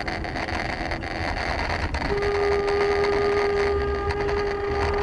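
Steady road and engine rumble of a moving car. A single-pitched car horn sounds, held for about three seconds, starting about two seconds in.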